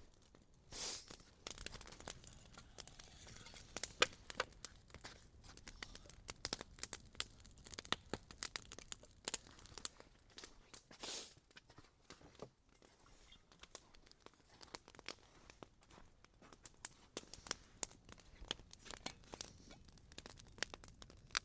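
Small wood campfire crackling, with irregular sharp pops and snaps throughout.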